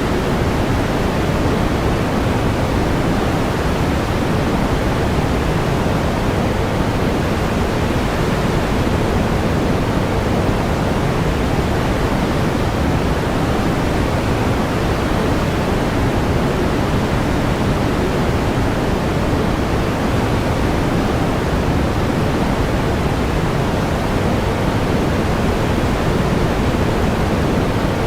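Steady pink noise: an even, unchanging hiss weighted toward the low end, like a distant waterfall.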